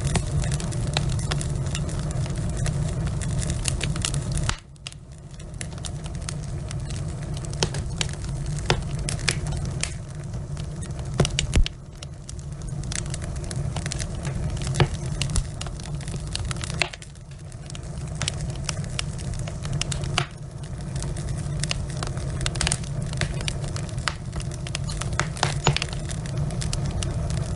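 Wood fire burning in a fireplace: logs crackling and popping over a steady low rumble of flames. One loud pop comes near the middle, and the rumble dips suddenly a few times.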